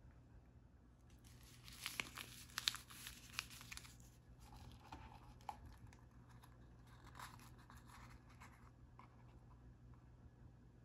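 A packaging wrapper being torn open and crinkled by hand. There is a burst of sharp crackling tears from about one and a half to four seconds in, then softer crinkling and handling that stops about nine seconds in.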